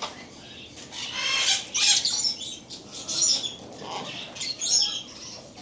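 Caged pet birds calling and chattering in several short, high-pitched bursts, the loudest about a second in.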